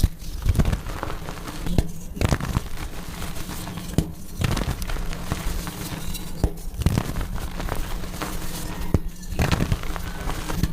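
Soft gym chalk being crushed, crumbling and crunching in short bursts, several times, often two in quick succession.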